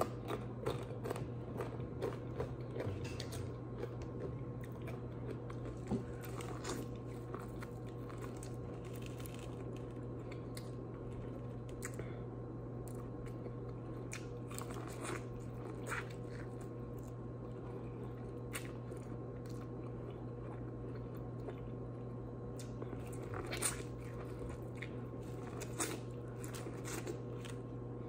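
Close-miked biting and chewing of food, with scattered crunchy bites and wet chewing of a coated corn on the cob, over a steady low hum.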